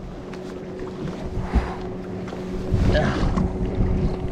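Open-boat ambience: a steady low motor hum, with wind and water noise rushing in twice, about a second and a half in and again about three seconds in, the second time louder.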